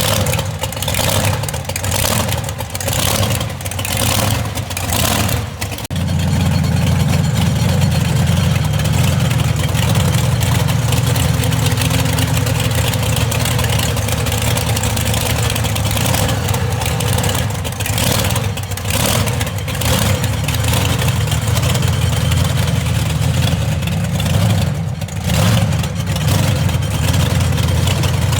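Monster truck engine revving in short surges, then from about six seconds in running loud and steady with a deep rumble.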